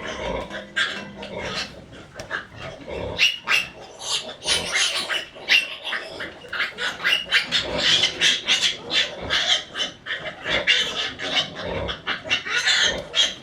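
Farm animals calling without a break: a dense run of short, rough calls, several a second, with no pause.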